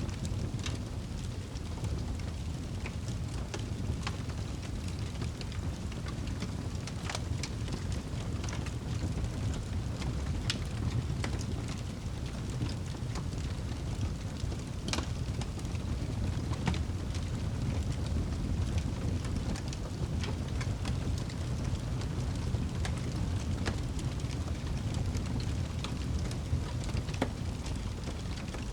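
Wood fire burning in a fireplace: a steady low rumble of flames with scattered crackles and pops of burning wood, one sharper pop about halfway through.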